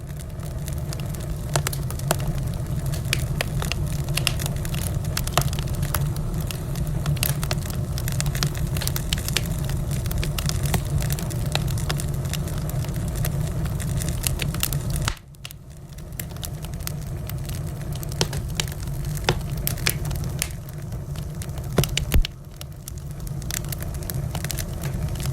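Wood fire in a fireplace crackling and popping: frequent sharp snaps over a steady low rumble of the flames. The level drops suddenly about fifteen seconds in and builds back, with a few louder pops a little later.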